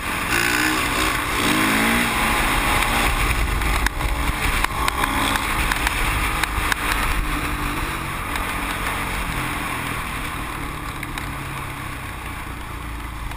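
Dirt bike engine running under way, its revs rising in the first couple of seconds and then holding steady, with wind rushing over the microphone.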